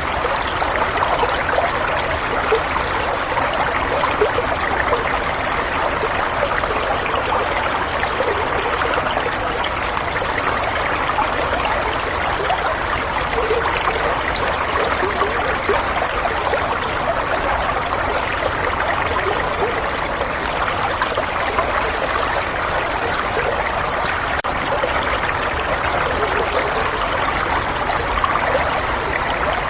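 Running water flowing and trickling steadily, like a small stream, with no breaks.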